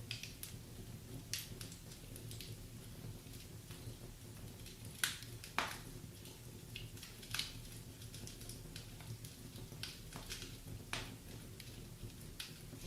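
Firewood burning in a fireplace, crackling with irregular sharp pops and snaps, the two loudest about five seconds in, over a low steady rumble.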